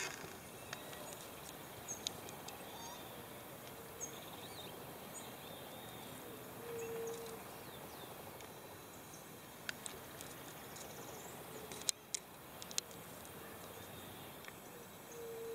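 Outdoor ambience of small birds chirping in short, high calls over a steady hiss. A brief low steady tone recurs every few seconds, and a few sharp clicks come in the second half.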